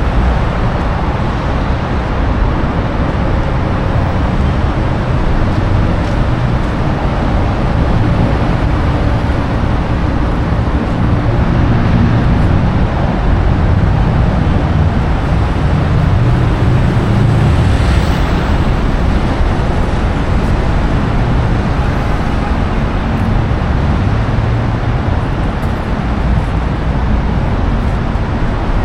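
Steady road traffic noise, with one vehicle passing more loudly about eighteen seconds in.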